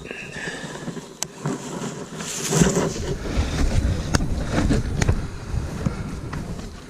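Mountain bike rolling fast down a dirt trail: tyre noise over the ground with sharp clicks and rattles, getting louder and rougher about two and a half seconds in.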